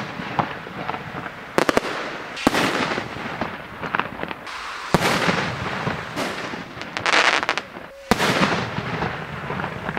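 Aerial fireworks bursting overhead: four sharp bangs a second or more apart, the first a quick cluster of reports, each followed by a long hissing, fizzing tail as the stars spread.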